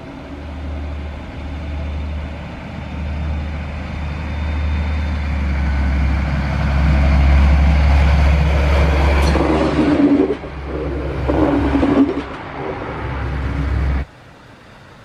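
Rail vehicle running close by: a steady low hum grows louder over the first half, with uneven rattling as it passes nearest. The sound cuts off suddenly near the end.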